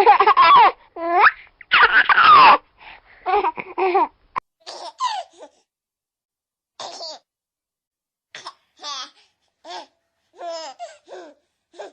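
A run of separate laughter sound-effect clips. Several loud bouts of laughing come in the first few seconds, then short, quieter, high-pitched giggles in separate bursts with pauses between them.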